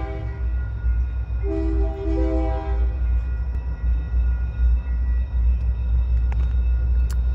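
Slow freight train approaching with a steady low rumble, its locomotive sounding the horn: the tail of one blast at the start, then a longer blast about a second and a half in. Two sharp clicks near the end.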